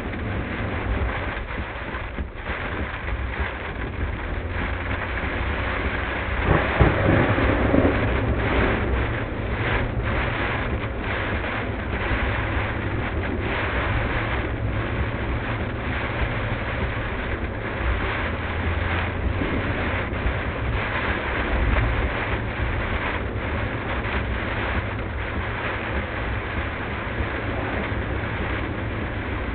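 Car driving through a heavy thunderstorm: rain hitting the car and tyres hissing on the wet road over a steady low drone of road and engine noise, sped up to double speed. A louder swell comes about seven seconds in.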